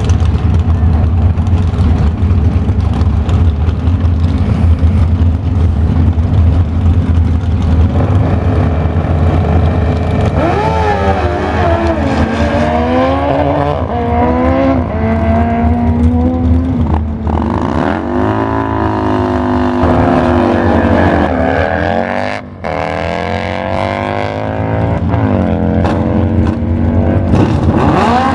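Drag-racing motorcycle engines: a steady low rumble for about ten seconds, then engine notes that climb in pitch and drop back several times as the bikes accelerate down the strip.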